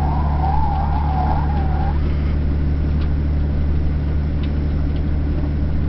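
Toyota LandCruiser's engine running steadily at low speed, a constant low drone heard from inside the cabin. A wavering higher tone sits over it and fades out about two seconds in.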